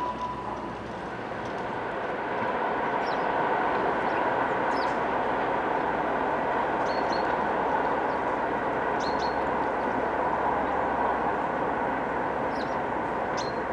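Steady rolling noise of a passing train, swelling over the first couple of seconds and then holding, with sparrows chirping briefly and repeatedly over it.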